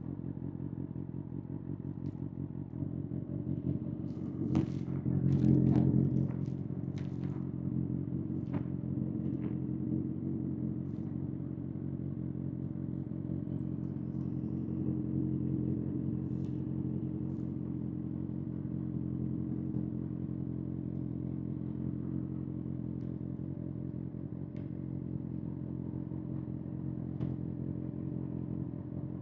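Kawasaki ZX-6R inline-four engine idling steadily through an SC-Project SC-1R exhaust, just after the revs have dropped back. It gets briefly louder about five seconds in, with a few sharp clicks.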